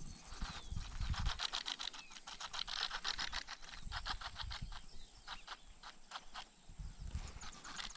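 Spinning reel's drag clicking in a rapid, uneven run as a hooked tararira pulls line off the spool. The clicks are densest in the first few seconds and thin out near the end, with a few low thumps.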